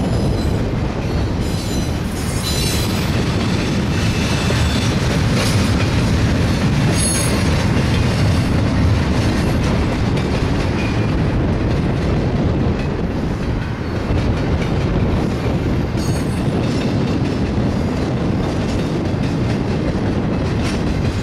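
BNSF double-stack intermodal train rolling past: a steady, loud rumble and clatter of steel wheels on the rails. High-pitched wheel squeals come and go, most of them in the first several seconds and again about sixteen seconds in.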